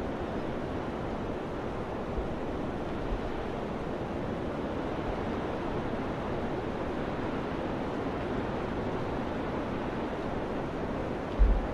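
Steady summer wind blowing, an even rushing noise, with a few low thumps of gusts hitting the microphone; the strongest comes near the end.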